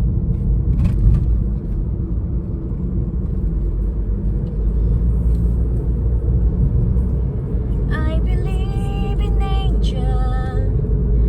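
A loud, steady low rumble, with a person's voice coming in about eight seconds in.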